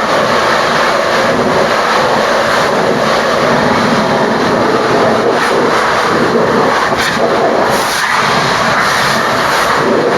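High-pressure washer lance spraying water onto a truck, a loud, steady hiss and rush.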